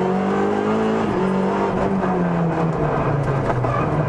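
Opel Kadett E GSI 16V rally car's 16-valve four-cylinder engine heard from inside the cabin, revs climbing for about a second, then a brief break and the revs falling steadily.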